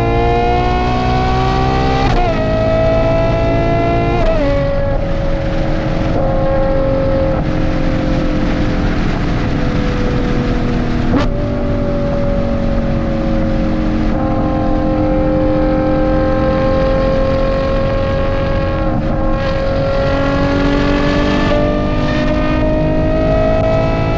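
Ferrari Purosangue V12 running through a Novitec race exhaust under way. Its pitch climbs and drops sharply with two quick upshifts in the first few seconds. It then holds a nearly steady note, steps up briefly about halfway through, and climbs slowly again near the end.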